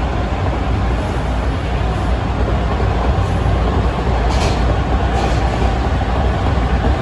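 Interior of a TTC T1 subway car running along the line: a steady heavy rumble of wheels and motors. Two short hisses come about four and five seconds in.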